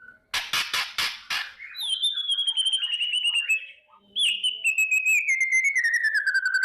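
White-rumped shama (murai batu) giving its crackling 'kretekan' call: a few harsh rasping notes, then two long, rapid rattling trills that slide down in pitch, the second carrying on at the end.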